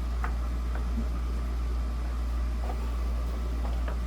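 Steady low hum under a few faint clicks and scrapes of a screwdriver working at a screw in the desk fan's front guard.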